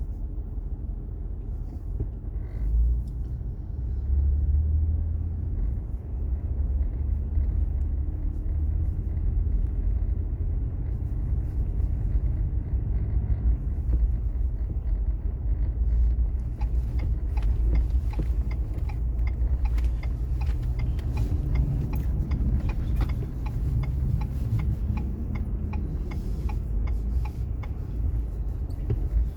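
Car cabin noise while driving: a steady low engine and road rumble, with scattered light ticks and clicks in the second half.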